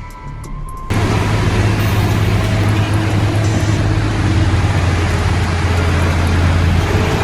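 A heavy vehicle's engine running with road noise and a deep, steady hum, cutting in abruptly about a second in.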